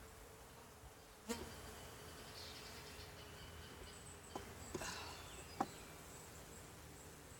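Honeybees buzzing steadily and faintly around an open hive, with a few sharp knocks, the first about a second in and the loudest about five and a half seconds in.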